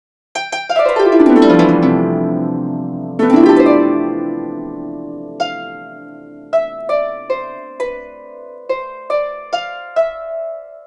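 Harp music: a rapid downward sweep of many plucked notes, a second sweep about three seconds in, then a slow melody of single plucked notes, each ringing out and fading.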